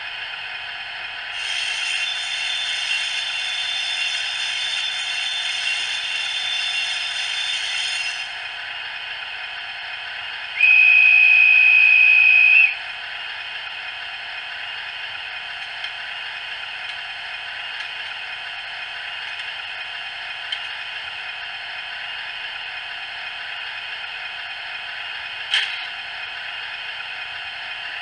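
Howes DCC sound decoder in a Heljan OO-scale Kestrel model locomotive, played through its 23 mm speaker: the idling diesel engine with a bit of hiss underneath throughout. A many-toned flange squeal sounds from about a second in to about eight seconds. A steady high guard's whistle follows for about two seconds, and a short door slam comes near the end.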